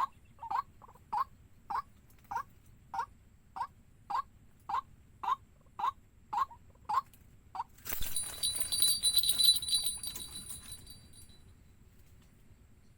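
A waterhen's short call repeated about thirteen times, a little under two a second. About eight seconds in, a sudden loud burst of noise with a high ringing tone cuts in and fades away over about three seconds.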